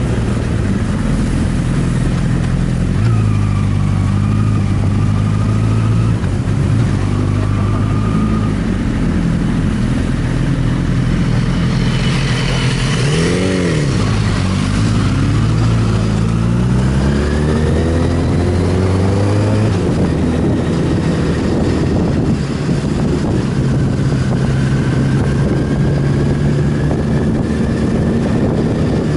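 Sport motorcycle engine running under way, with wind noise. About halfway through, the revs briefly shoot up and drop, then climb steadily for several seconds before settling.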